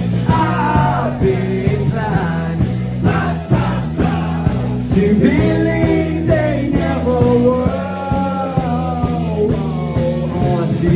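Live cover band playing a rock song, with a singer over bass, guitar and drums.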